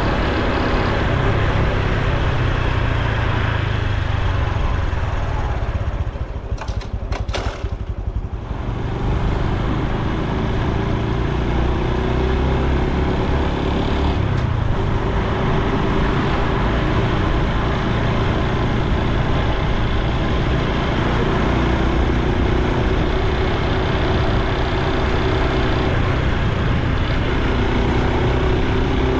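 Honda Super Cub C125's air-cooled single-cylinder engine and exhaust running steadily on the move, with road and wind noise. The sound dips briefly about seven seconds in.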